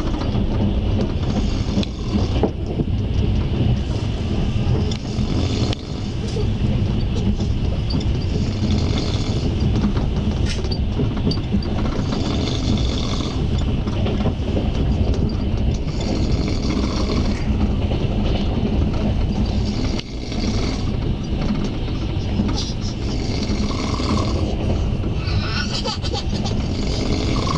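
Passenger train running along the line, heard from inside the carriage: the steady running noise of wheels on rail, heavy at the low end, with a low hum and patches of higher hiss that come and go.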